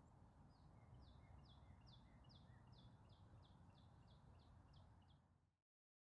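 Very faint bird song: a run of about a dozen quick down-slurred notes, roughly three a second, starting about half a second in and ending about five seconds in.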